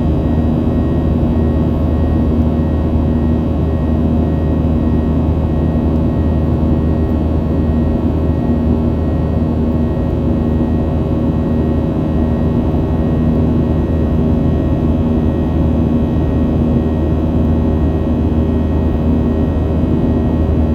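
Steady drone of a Boeing 737-800's CFM56 turbofan engines and airflow heard inside the passenger cabin in flight, a constant rushing hum with a few held tones.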